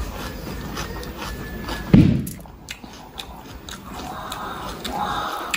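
Close-miked chewing of a mouthful of food, with one loud low thud about two seconds in.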